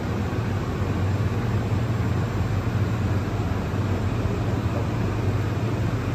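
Interior running noise of a rubber-tyred Macau Light Rapid Transit train pulling into a station: a steady rumble with a constant low hum.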